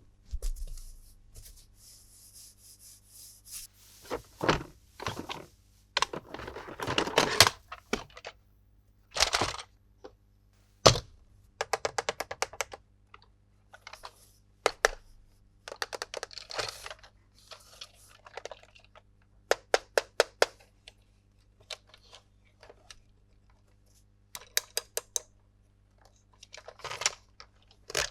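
Toy packaging and plastic toy parts being handled during an unboxing: irregular clicks and knocks, quick runs of clicking, and a longer stretch of rustling or tearing a few seconds in.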